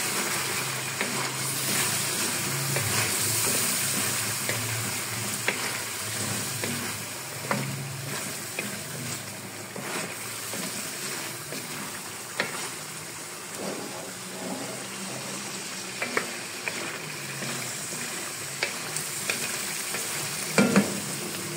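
Chicken pieces with ginger-garlic paste sizzling in hot oil in a karahi while a wooden spatula stirs them, with a few sharp knocks of the spatula against the pan.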